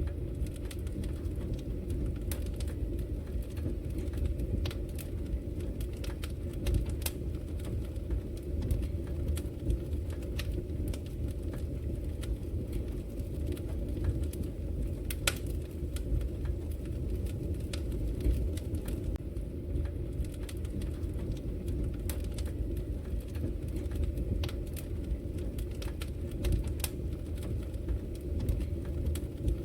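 Wood fire crackling, with scattered sharp pops over a steady low rumble. The loudest pop comes about halfway through.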